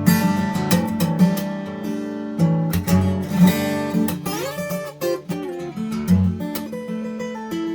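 Solo fingerstyle acoustic guitar: plucked bass notes under a melody, with a few notes sliding up in pitch about four seconds in.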